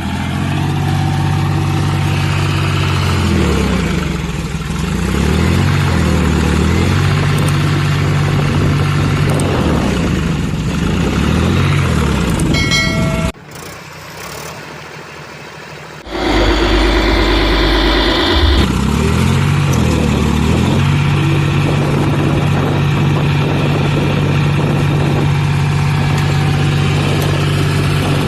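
A vehicle engine running and revving, its pitch repeatedly falling and rising, then holding steady. It drops out suddenly about 13 seconds in, comes back with a loud noisier burst for a couple of seconds, and then settles into a steady drone.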